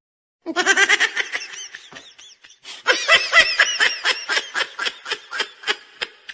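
High-pitched laughter in two runs of quick, repeated giggles, the second longer and slowing toward the end.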